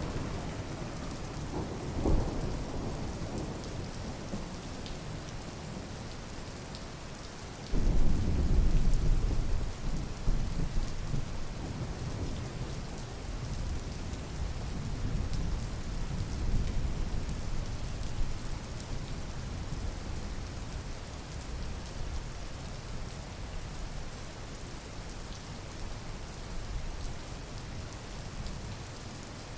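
Steady rain with thunder: a short low rumble about two seconds in, then a louder roll of thunder that starts suddenly about eight seconds in and fades over about ten seconds.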